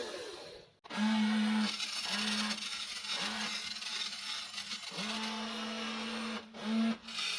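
Small electric gear motors of a WLtoys radio-controlled toy excavator whirring in short bursts, starting and stopping about six times as the arm and bucket are worked, with one longer run about two-thirds of the way through.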